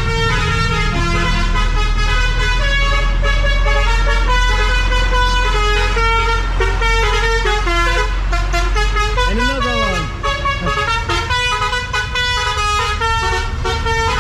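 Party bus blasting loud music, a melody of held, stepping notes over a steady low drone, with a swooping glide up and down about halfway through.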